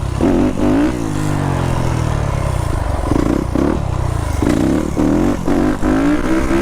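Dirt bike engine revving in a string of short throttle bursts, its pitch climbing and dropping again several times, over a steady low rumble of engine and road noise.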